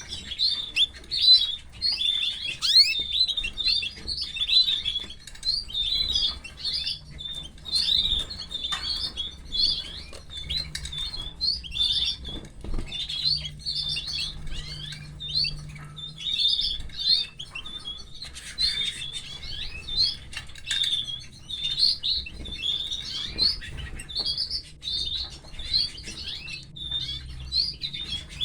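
Canary chicks cheeping in a continuous rapid run of short, high-pitched chirps: nestlings begging to be fed.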